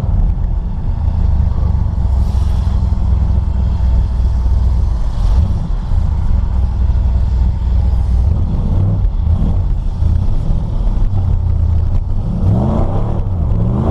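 Chevrolet S-10 pickup's newly swapped engine running, a steady low drone with small shifts in pitch about five and nine seconds in.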